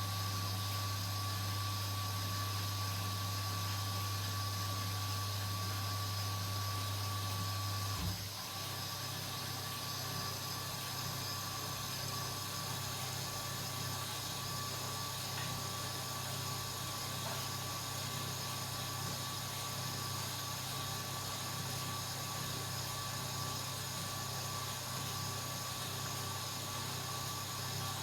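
Washing machine running with a steady low hum and a high whine. About eight seconds in, a click is followed by a shift to a slightly higher, rougher hum that carries on steadily.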